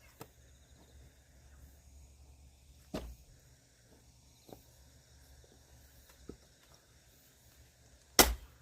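Axe blows splitting firewood: a sharp crack about three seconds in and a louder one near the end, with a few lighter knocks in between.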